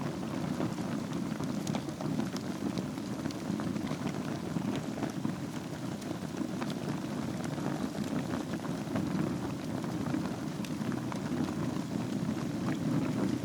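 Wood fire burning in a fireplace over glowing embers: a steady low rustle of flames with frequent small crackles and pops scattered throughout.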